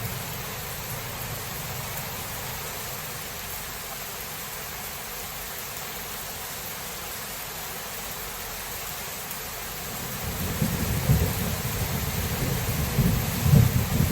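Steady rain falling during a thunderstorm. About ten seconds in, a low thunder rumble builds and rolls on, with louder peaks near the end.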